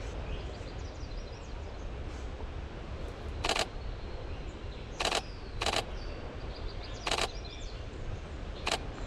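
A camera shutter firing in five short bursts, spaced one to one and a half seconds apart, over faint bird chirps and a low steady rumble.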